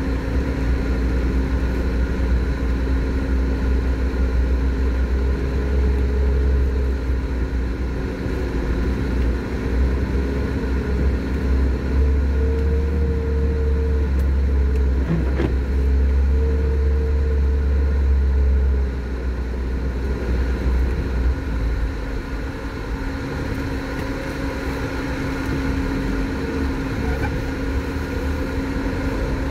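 Lada Niva running on a snowy road, heard from inside the cabin as a steady low engine and drivetrain rumble with a droning tone. The low rumble eases off a little about two-thirds of the way through.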